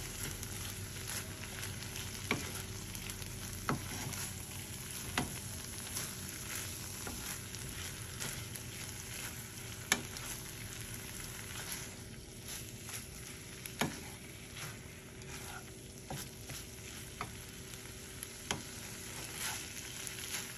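Ground meat sizzling as it fries in a skillet, stirred with a wooden spatula that knocks and scrapes against the pan every second or two.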